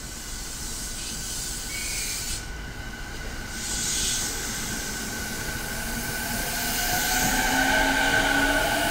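E217-series electric train starting to pull away from the platform: two short bursts of air hiss, then the whine of its traction motors rising in pitch and growing louder as it accelerates.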